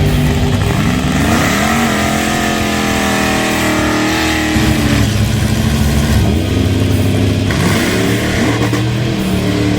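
Nitro funny car engine revving: it climbs in pitch about a second in, holds a steady high note, then drops and climbs again near the end.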